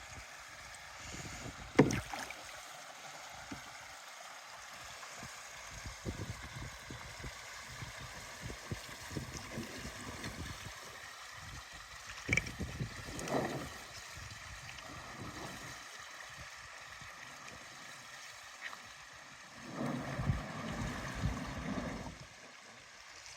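Canoe paddling: irregular paddle strokes and splashes in the water, with a sharp knock about two seconds in and louder bursts of splashing a little past halfway and near the end.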